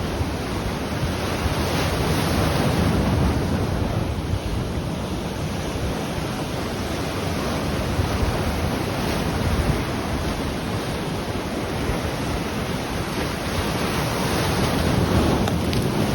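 Ocean waves breaking and washing on the shore, a continuous surf with swells about two seconds in and again near the end, with some wind on the microphone.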